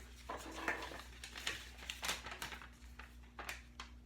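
Light, irregular clicks and rustles of a plastic toy and its packaging being handled, over a steady low room hum.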